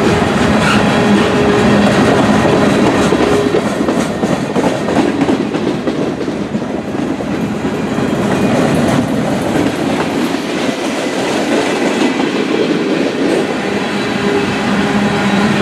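Freight train cars rolling past close by, steel wheels clicking over the rail joints over a steady rumble. A low steady hum sounds at the start and again near the end.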